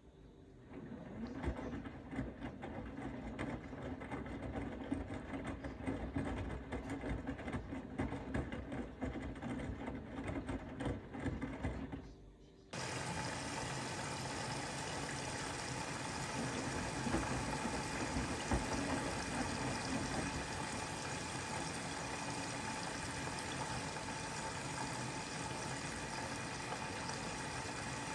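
Bosch Serie 4 front-loading washing machine in a wash cycle: the drum turns and water sloshes, with irregular clicks and knocks. About halfway through this stops abruptly and a steady rushing sound with a faint hum takes over.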